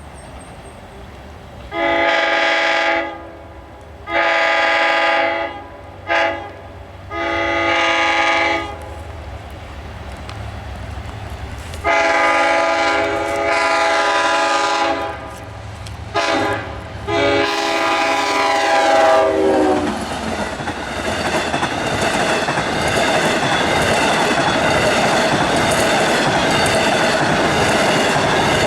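Long Island Rail Road train horn, several tones sounding together, blowing the grade-crossing signal: two long blasts, a short one and a long one. It then blows again, long, short and long, and its pitch drops as the train passes. The train then runs through the crossing, wheels clacking steadily over the rail joints.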